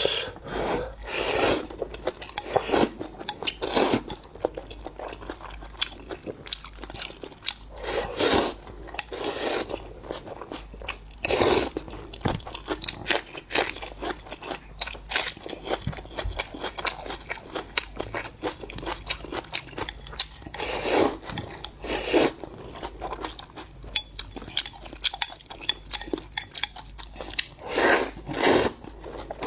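Close-up eating sounds: seafood being chewed and crunched, with short clicks throughout and a louder crunch every few seconds.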